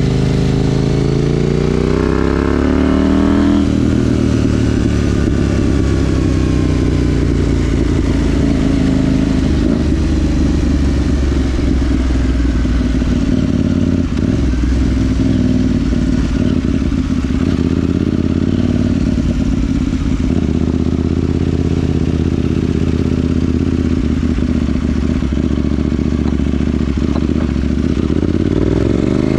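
KTM 790 Duke's parallel-twin engine, breathing through a Remus rear silencer with the catalytic converter deleted, heard while the bike is ridden. It revs up through the first few seconds, then runs at a fairly steady engine speed for most of the time, and starts revving up again right at the end.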